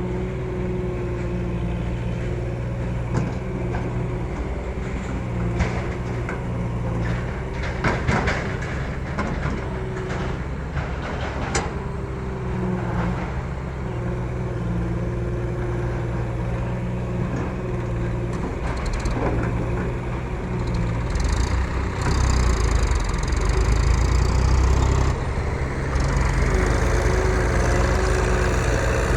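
Case JX40T tractor's diesel engine running steadily, with scattered cracks and knocks near the middle, then running louder and heavier for the last several seconds.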